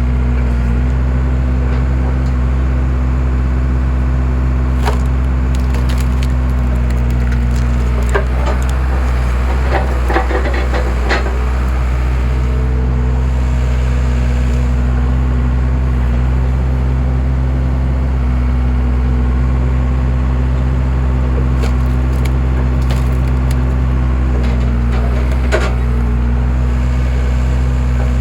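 Skid steer engine running steadily while a homemade skid-steer splitter splits logs, the wood cracking and splintering in sharp snaps scattered through, with a thick cluster of cracks about ten seconds in.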